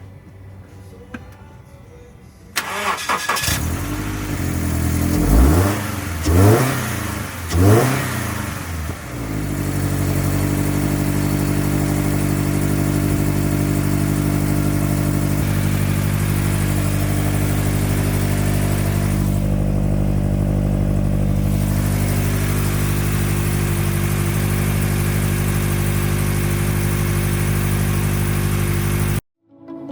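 2013 Subaru BRZ's 2.0-litre flat-four boxer engine starting about two and a half seconds in, blipped through three quick revs, then settling into a steady idle. The sound cuts off abruptly just before the end.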